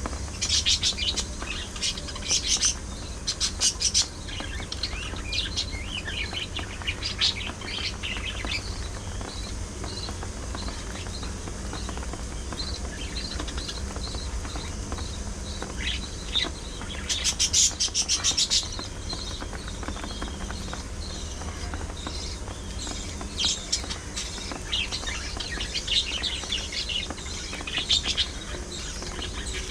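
Budgerigars chirping and chattering in quick bursts of high, trilling calls, loudest in the first few seconds and again about halfway through, over a steady low hum.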